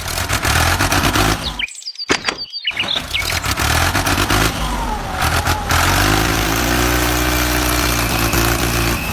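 Mini tractor engine running, cutting out briefly twice about two seconds in, then settling into a steady hum from about six seconds on.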